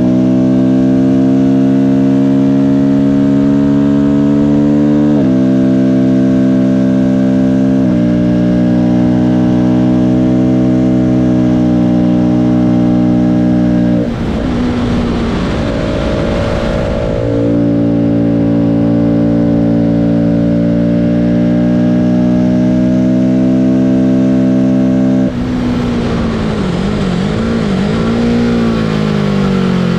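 Car engine pulling under load on a circuit lap, its pitch climbing slowly in each gear with upshifts about five and eight seconds in. From about fourteen seconds the engine note drops away under a rush of wind and road noise for a few seconds, then it pulls steadily again. Near the end the pitch drops and wavers up and down.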